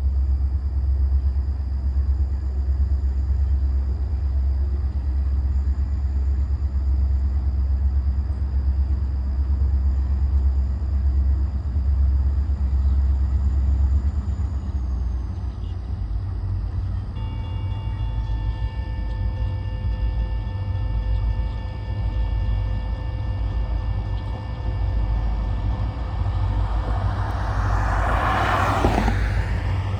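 Low steady rumble, joined about halfway through by the steady ringing of grade-crossing warning bells as the signals activate for an approaching train. Near the end a loud rushing sound swells and fades.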